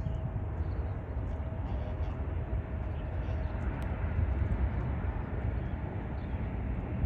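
Jet airliner engines giving a steady low rumble, with a faint steady whine that fades out about three seconds in.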